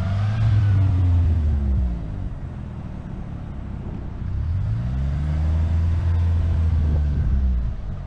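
Manual-transmission car's engine revving up, holding and dropping back twice: once as it begins and again from about halfway, as the driver gives gas while slipping the clutch to pull away on a hill.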